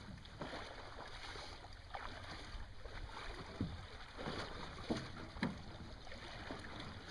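Small boat sitting in shallow water: soft water sloshing with a few scattered knocks and splashes over a low wind rumble.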